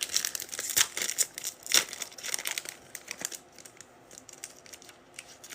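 A trading-card pack's wrapper crinkling and tearing as it is ripped open. Sharp crackles fill the first three seconds or so, then it settles to quieter rustling.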